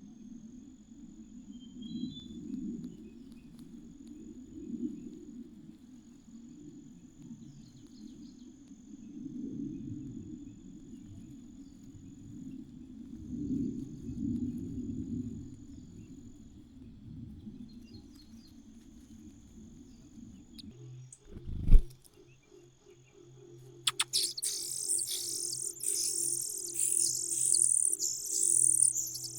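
A thin, steady high insect drone runs over a low background murmur, broken by a sharp knock about two-thirds of the way through. Soon after, loud, rapid, high-pitched chirping of nestlings begging in the nest breaks out and carries on to the end.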